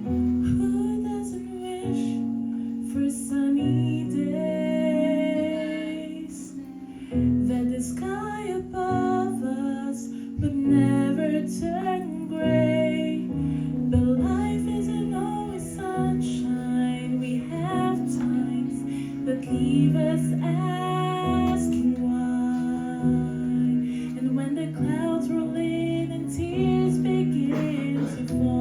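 Music: a woman singing a slow gospel song over sustained instrumental accompaniment.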